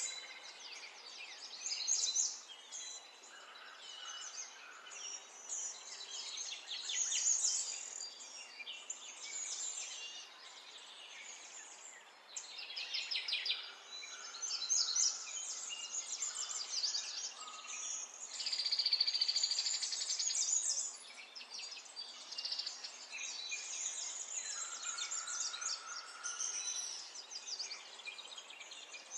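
Several songbirds singing and chirping together in a dense chorus of quick, high trills and twitters, with one long, even trill about two-thirds of the way through.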